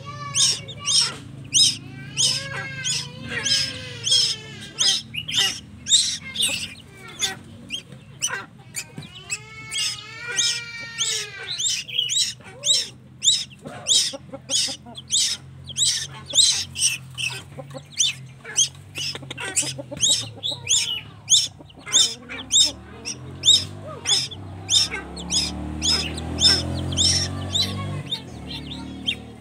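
A young tuwu bird calling: short, sharp cries repeated about twice a second, with a few longer, arching calls between them, typical of a chick begging to be fed.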